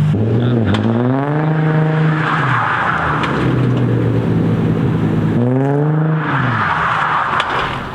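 Sports car engine revving hard twice: each time the pitch climbs steeply and then falls back, with a rushing hiss as the revs peak.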